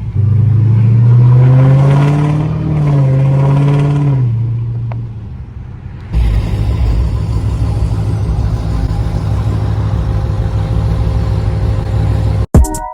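Car engine revving, its note rising and then falling back over about four seconds, followed by a steady engine and road drone while the car cruises.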